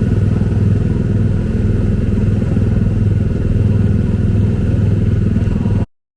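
Steady, loud, engine-like mechanical rumble with a strong low hum, cutting off abruptly just before the end.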